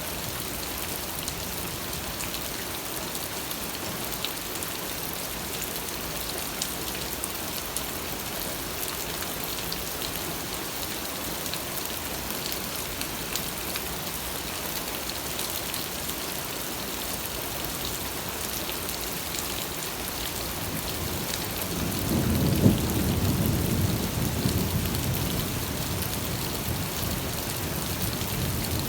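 Steady rain falling with an even hiss; about three-quarters of the way through, a low roll of thunder swells up with a sharp crack at its peak and rumbles off slowly.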